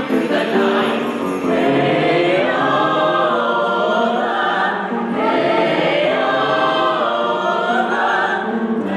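A choir singing a Christmas carol, with long held notes that glide up and down.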